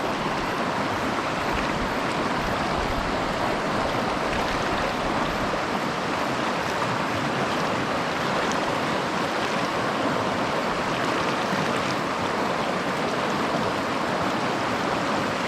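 Steady rushing of a shallow mountain stream running over gravel and rocks.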